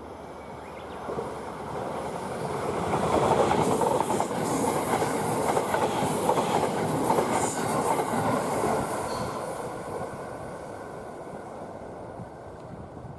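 Electric train passing by on the line: it swells about a second in, is loudest in the middle, and fades away toward the end.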